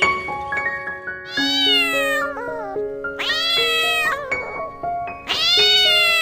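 A cat meowing three times, long drawn-out meows that rise then fall in pitch, over background music.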